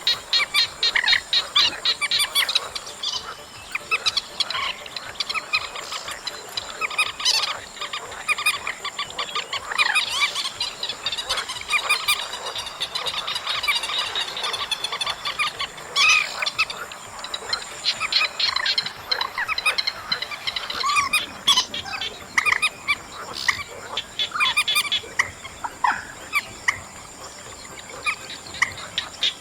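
Recorded calls of the trích ré, a Vietnamese marsh bird: many short notes repeated in quick, overlapping series, with a steady thin high tone underneath.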